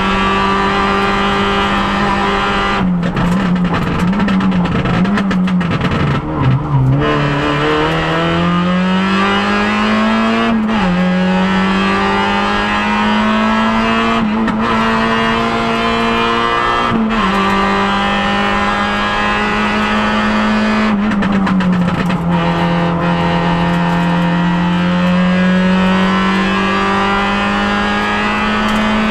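Peugeot 106 N1600 rally car's 1.6-litre engine heard from inside the cabin, running at high revs under hard acceleration. The revs climb, then drop sharply at several gear changes. A few seconds in, a stretch of lower, wavering revs comes as the car slows for a corner, before the engine pulls steadily up again.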